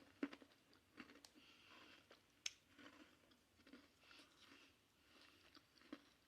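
Quiet close-up chewing of crisp Tate's cookies: soft crunching with mouth clicks and a few sharper crunches, the loudest about two and a half seconds in.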